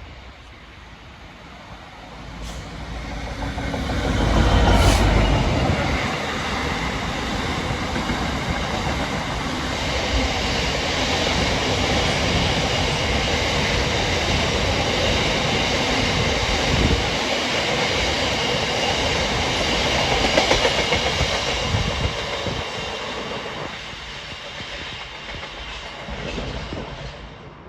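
A freight train passing by. The locomotive's engine builds up and passes a few seconds in, then a long rake of wagons rolls by with rhythmic wheel clatter over the rail joints. The sound fades away near the end.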